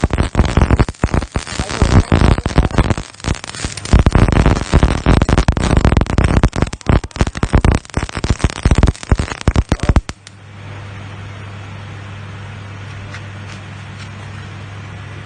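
MIG welding arc crackling loudly and irregularly, a dense spitting crackle, until it stops abruptly about ten seconds in. A steady low hum is left after it.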